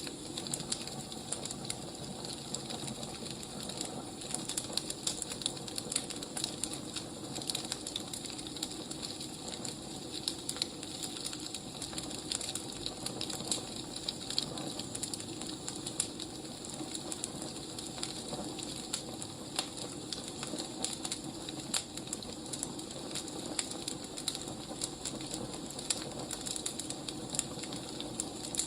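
Burning firewood crackling: a steady hiss with frequent, irregular sharp pops and snaps.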